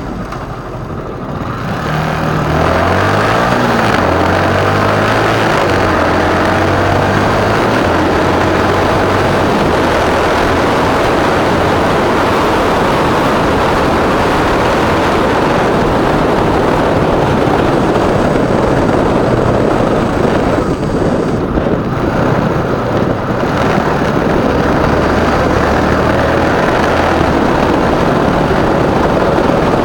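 Wind buffeting the microphone on a moving motorcycle, with the bike's engine running low underneath, its note stepping up and down in pitch as speed changes. The rush gets louder about two seconds in and eases briefly about two-thirds of the way through.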